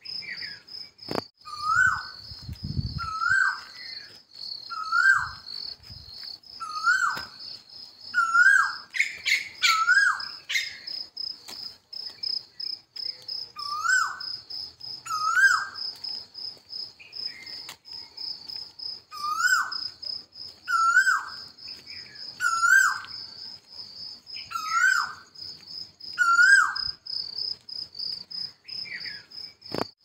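A bird calling over and over, a short note that rises and then drops off, about once every second and a half, with a pause for a few seconds just after the middle. Underneath runs steady, fast-pulsing insect chirring, like crickets.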